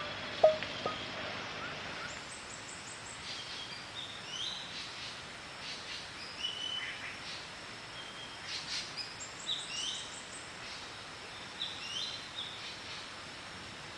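Several birds call in the forest: short chirps, quick trills and slurred notes come and go over a steady hiss of forest background. A few plucked musical notes die away in the first second or so.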